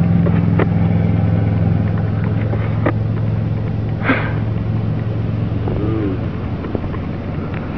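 A vehicle engine idling with a steady low hum that drops away about six seconds in, with a few scattered clicks over it.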